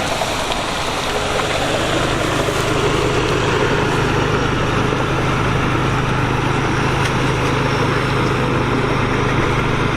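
An engine running steadily at a constant speed, with an even low hum that does not rise or fall.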